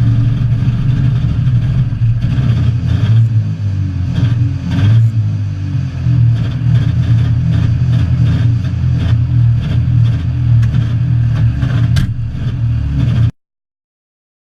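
Trabant 601's two-stroke, two-cylinder engine running with a steady, low, rattly note. It cuts off suddenly about thirteen seconds in.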